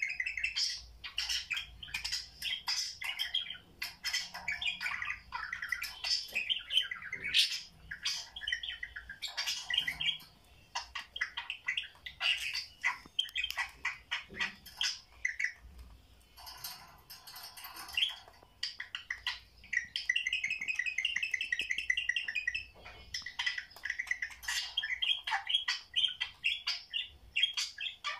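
Budgerigars chattering: a dense run of short chirps, squawks and warbles, quieter for a moment past the middle, with a fast rattling trill about twenty seconds in.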